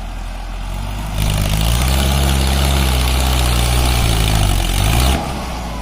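Mahindra Arjun 605 tractor's diesel engine idling, then revved hard about a second in and held at high revs for about four seconds under the heavy load of a stuck, loaded trolley, before dropping back to idle.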